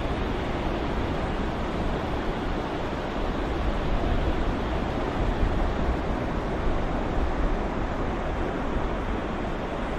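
Ocean surf as a steady rushing wash of waves, rising and falling a little in loudness every few seconds.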